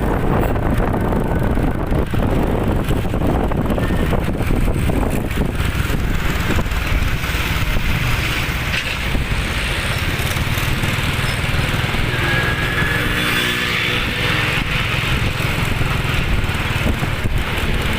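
Truck on the move: steady engine and road noise. A brief pitched tone comes in about two-thirds of the way through.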